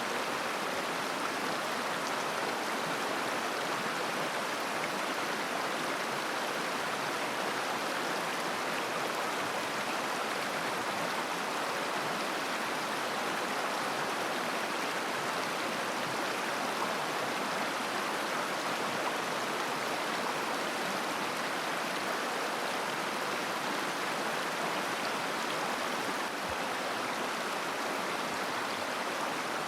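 A mountain river running over stones: a steady, even rush of babbling water that holds unchanged throughout.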